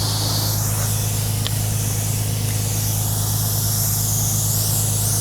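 Steady hiss of air, likely a truck tire being aired up to reseat its bead on the rim, over the low, steady hum of an idling diesel truck engine.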